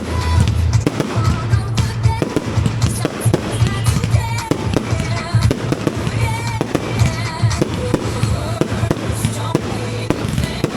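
Fireworks going off in rapid succession, many bangs and crackles packed close together, over music with a steady bass beat.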